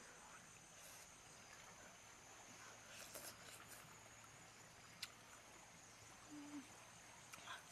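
Near silence, with a few faint clicks from a person chewing food.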